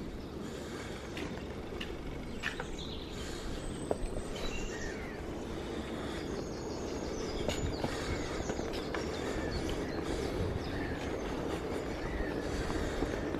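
Steady rolling rumble and wind noise from a bicycle being ridden, with scattered rattles and clicks, and faint bird chirps now and then.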